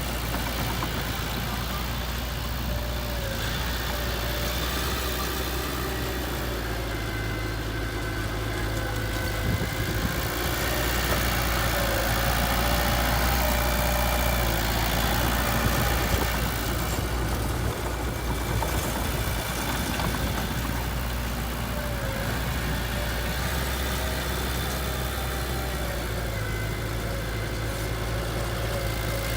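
Heavy vehicle's diesel engine running steadily at idle, getting a little louder for several seconds near the middle.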